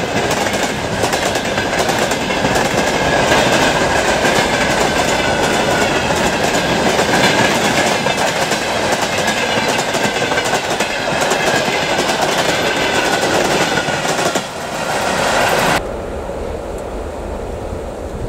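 A freight train of covered hopper cars, flat cars and tank wagons rolling past close by, its wheels clacking over the rail joints. Near the end the sound cuts off suddenly, leaving a quieter hiss of wind.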